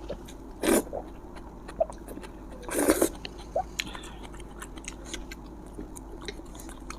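Close-miked eating of spicy fire noodles: wet chewing with many small mouth clicks, and two louder short bursts, one about a second in and one near three seconds.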